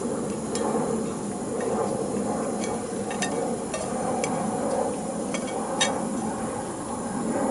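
Food sizzling in a hot pan: a steady hiss with about seven sharp pops scattered through it.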